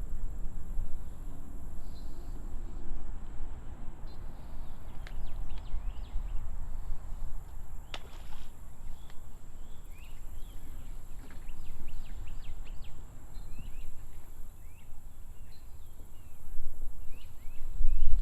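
Small birds chirping in short calls, more of them from about halfway through, over a steady high-pitched insect drone and a low rumble across the whole stretch.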